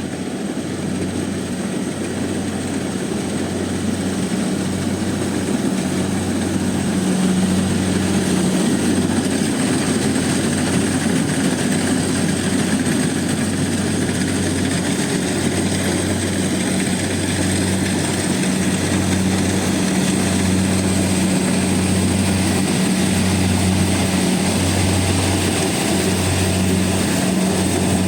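Rice combine harvester running while harvesting: a steady engine drone over a broad rushing noise from the cutting and threshing. It grows louder over the first several seconds, and the low hum swells and fades about every second and a half.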